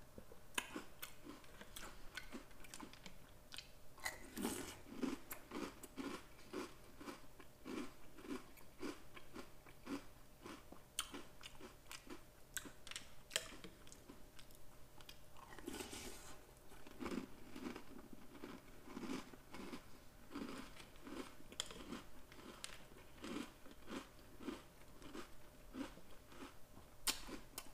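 Chewing crunchy Oreo O's cereal with milk: a steady run of crunches, about two chews a second, with small clicks throughout.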